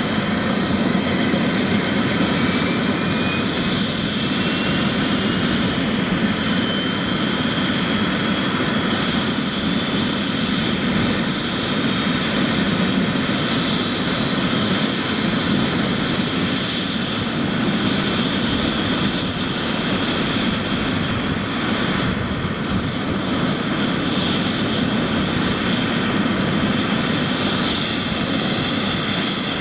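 Bell 407 helicopter running, its single Rolls-Royce 250 turboshaft and rotor making a loud, steady noise. A high turbine whine rises in pitch over the first few seconds, then holds steady.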